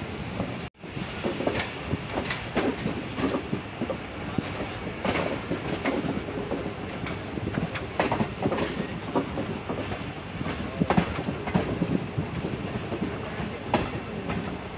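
Passenger train coaches running slowly, heard from an open coach window: steady rolling rumble with repeated clicks of the wheels over rail joints. The sound cuts out completely for a moment just under a second in.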